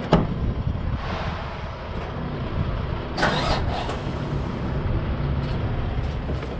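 Semi truck's diesel engine running steadily, heard from inside the cab, with a sharp click right at the start and a short hiss about three seconds in.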